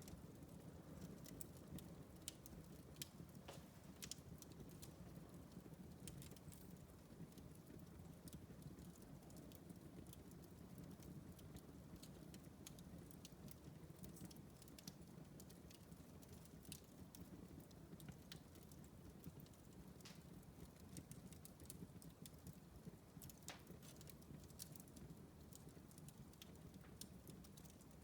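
Wood fire in a fireplace crackling quietly: scattered sharp snaps and pops, irregularly spaced, over a soft low rush of the burning logs.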